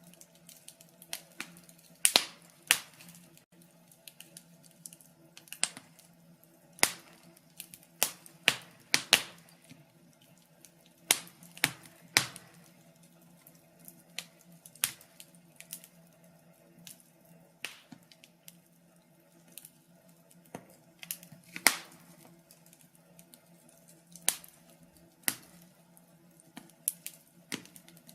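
Wood fire crackling in a fireplace: irregular sharp pops and snaps, a few every couple of seconds, some louder than others, over a faint steady hum.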